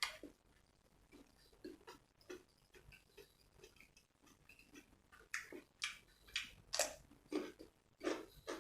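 A person chewing grilled pork neck salad close to the microphone, with wet mouth smacks. The chews are sparse at first and then come quickly, about two a second, from about halfway through.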